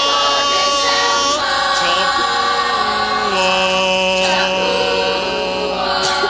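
A vocal group singing long held chords in harmony, a cappella, the chord changing about a second and a half in and again about three seconds in.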